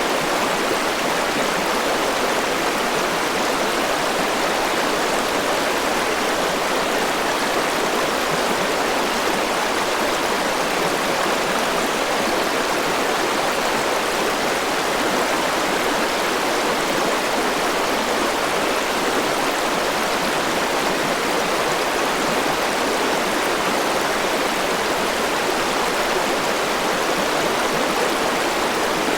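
A forest river flowing, a steady rush of water over rocks.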